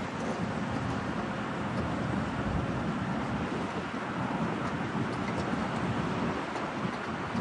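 XCMG XC760K skid-steer loader's Yanmar diesel engine running, a steady noisy rumble without sudden changes.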